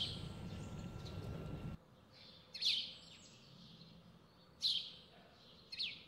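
A small bird calling outdoors: short, sharp, downward-sweeping chirps that repeat about every two seconds. A low outdoor rumble underneath cuts off suddenly about two seconds in, leaving the chirps over a quiet background.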